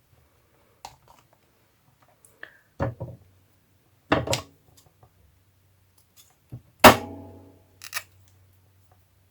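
Craft tools and paper handled and set down on a work table: a scatter of knocks and clatters. The loudest knock comes about seven seconds in and rings briefly, like a hard object put down.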